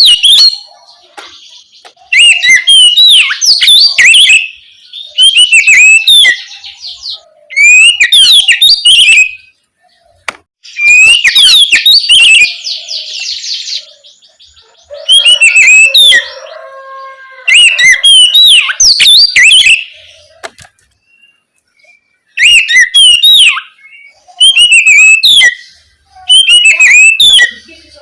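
Oriental magpie-robin singing loud, full song in quick whistled phrases of a second or two, about nine of them, with short pauses between.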